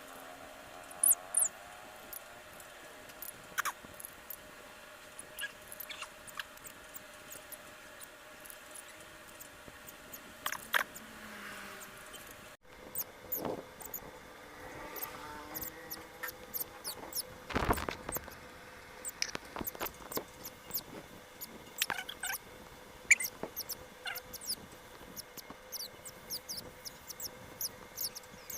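Parrot chicks squeaking in short, high, scattered peeps, with a few soft clicks and one louder rustle about two-thirds of the way through.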